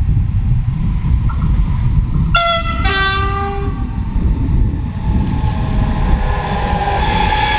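A train sounds a two-tone horn, a short higher note followed by a lower one, about two and a half seconds in; then a steady whine grows louder as the train approaches. Wind rumbles on the microphone throughout.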